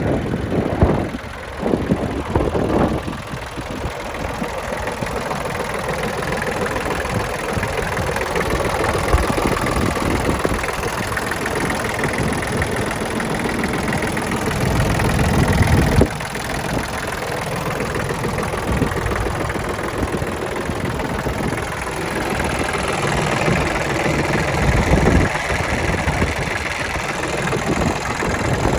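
New Holland 1725 compact tractor's diesel engine running at idle, with a few louder knocks in the first three seconds. It swells a little louder just past the middle, then drops back abruptly to idle.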